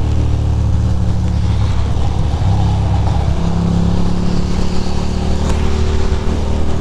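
Ducati Monster's V-twin engine running steadily at highway cruise, its pitch shifting slightly about halfway through, under a steady rush of wind and road noise.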